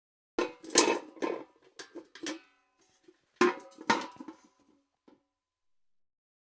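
Metal bucket clanking: two quick runs of knocks and rattles, each hit leaving a brief metallic ring, then one small tap near the end.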